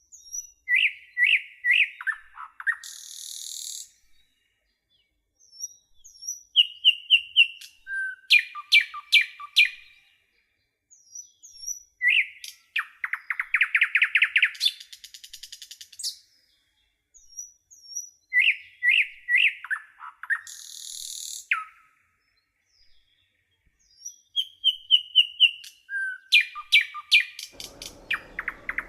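A songbird singing a nearly identical phrase about every six seconds. Each phrase is a quick run of clear whistled notes, a rapid trill and a high buzzy note, with dead silence between phrases. A low hiss comes in near the end.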